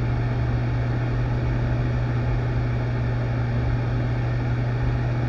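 Steady low hum with an even hiss over it, unchanging throughout, like a running machine or fan in the room.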